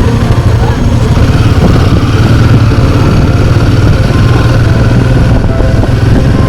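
Royal Enfield Himalayan 450's single-cylinder engine running steadily on the move, a loud, even drone.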